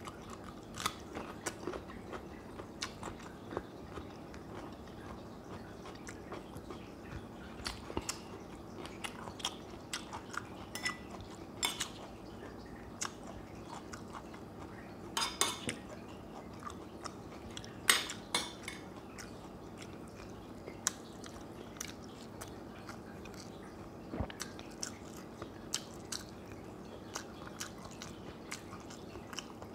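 Close-up eating sounds: chewing and biting with small crunches as food is eaten by hand, scattered short clicks throughout, loudest a little past the middle, some likely from a spoon against a ceramic bowl or plate. A steady low hum runs underneath.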